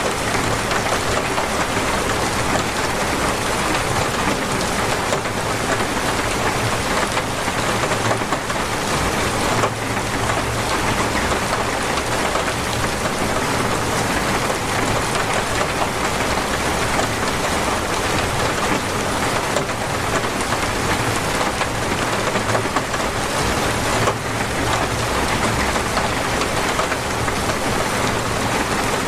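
Torrential rain falling hard and steadily, a dense unbroken hiss of heavy rain on surfaces.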